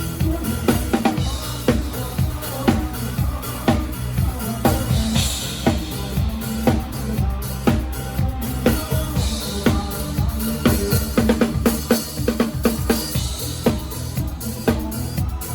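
Live drum kit playing with a band: bass drum and snare keep a steady beat, with rimshots and quick runs of hits, over a sustained bass line.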